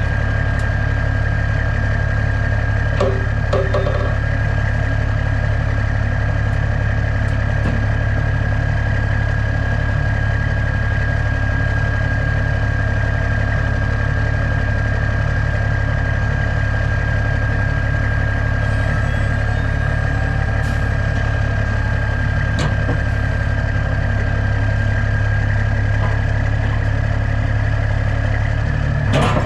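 Heavy diesel truck engine running steadily, with a constant high whine over the low rumble.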